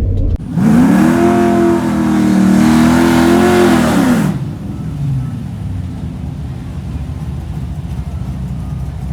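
Drag car engine revved up sharply and held at high rpm for about three seconds, then let back down to a lower running sound.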